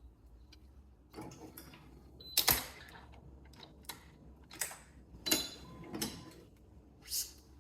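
A series of sharp clicks and short scraping sounds from restringing a badminton racquet, about seven in all, irregularly spaced, the loudest about two and a half seconds in.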